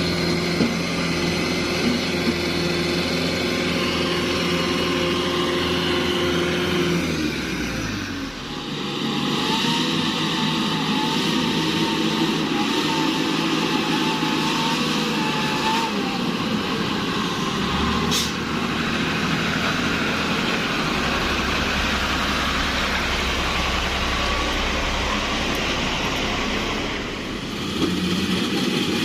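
Diesel engine of a Fuso heavy-duty truck running hard under load. About eight seconds in the revs fall away, then it carries on with a rougher, noisier sound and a wavering whine.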